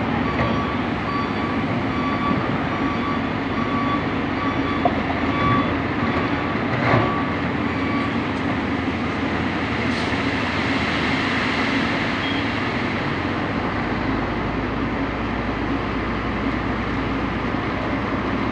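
Heavy diesel loading machinery and trucks running steadily. A repeating warning beep sounds and stops about eight seconds in, and there is a single knock a little before that.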